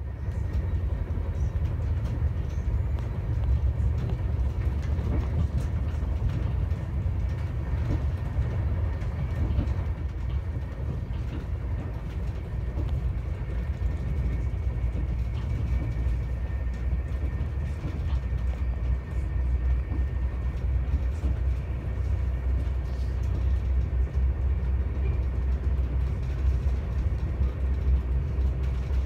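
Swiss passenger train running at speed, heard from inside the carriage: a steady low rumble of wheels on rail, with a faint high whine in the middle.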